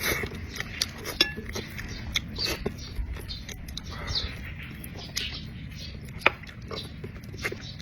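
A person eating close to the microphone: chewing and mouth sounds with irregular short clicks and crunches, one sharper click about six seconds in.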